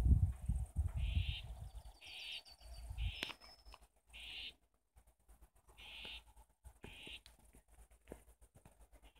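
A bird repeats a short, high call about once a second, with a brief higher trill about two seconds in. Wind buffets the microphone during the first second or so, then dies away.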